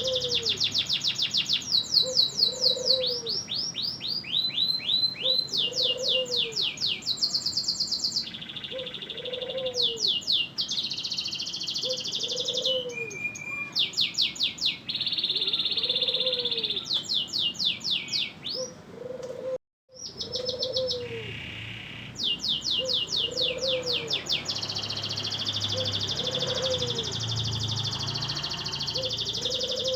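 Canary singing a long, vigorous song of fast trills and rapidly repeated notes, phrase after phrase with barely a break. A faint low note repeats about every second and a half underneath, and the sound cuts out for a moment a little before the middle.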